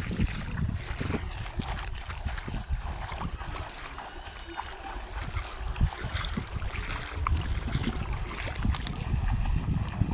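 Wind buffeting the microphone as an uneven low rumble, over a haze of water noise, with scattered short knocks and splashes.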